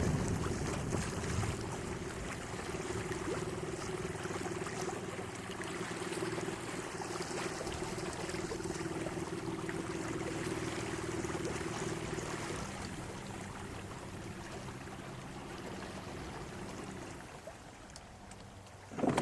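Minn Kota Endura 30 lb electric trolling motor humming steadily as it drives a kayak, with water rippling along the hull. The hum steps down in pitch about twelve seconds in and fades out shortly before the end.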